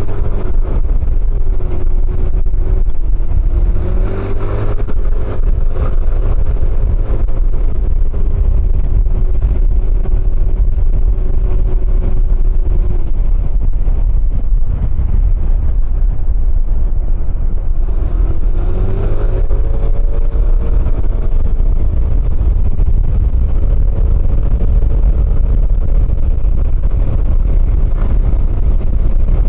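Motor scooter with a CVT variator running along the road, heard with a heavy low wind rumble on the microphone. The engine note climbs as it speeds up about four seconds in, then holds steady. It fades for a few seconds and climbs again near the two-thirds point.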